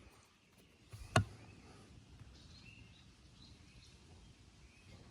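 One sharp click or knock about a second in. Otherwise quiet outdoor background with a few faint bird chirps.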